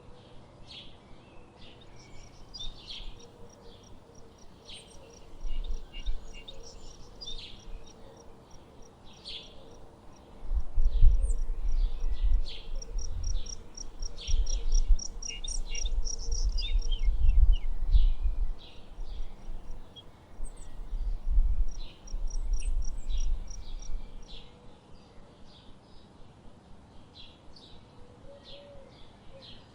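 Many small birds chirping and calling, with quick runs of high, evenly repeated notes. From about ten seconds in, a loud low rumble comes and goes under the birdsong for roughly fourteen seconds, then drops away.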